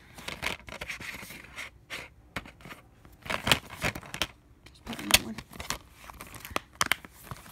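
A DVD case and its packaging being handled: scattered clicks and rustling, with louder sharp clicks about three and a half, five and seven seconds in.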